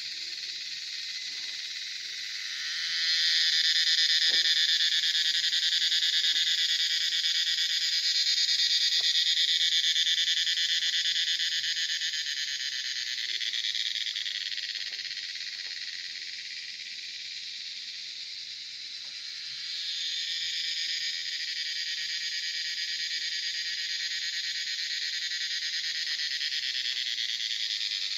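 Dense chorus of calling animals: a continuous high buzzing that swells louder a few seconds in, eases off in the middle and builds up again about two-thirds of the way through.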